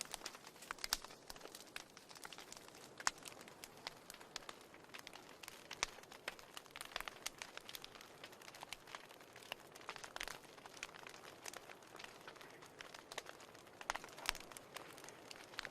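Fireplace fire crackling: irregular sharp pops and snaps over a faint steady hiss, with a few louder pops scattered through.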